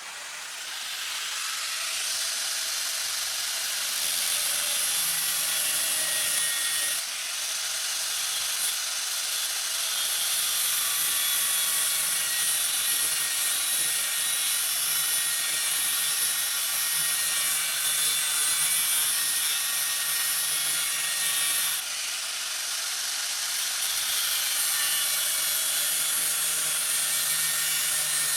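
An electric power tool working metal, running up from a standstill and then holding steady, with a hissing, grinding sound that dips briefly twice.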